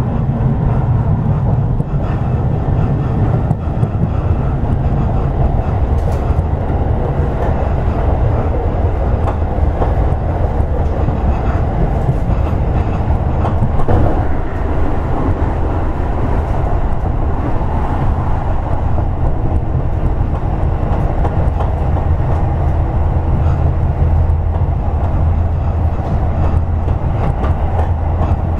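Toei 10-300 series electric commuter train running at speed between stations: a steady rumble of wheels on rail, with a few sharper knocks from the track, the loudest about halfway through.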